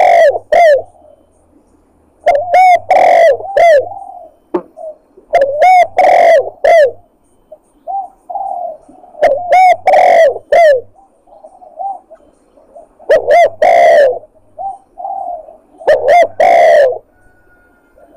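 Spotted dove (tekukur) cooing in a lure recording: loud phrases of several arched coo notes repeat every three to four seconds, with softer coos between them.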